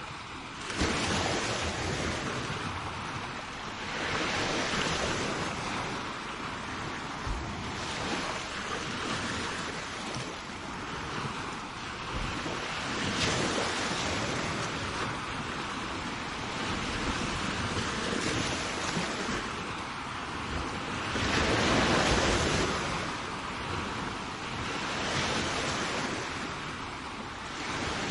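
Sea waves breaking and washing up a shore: a continuous rushing surf that swells and eases every few seconds, with the biggest surge about three-quarters of the way through.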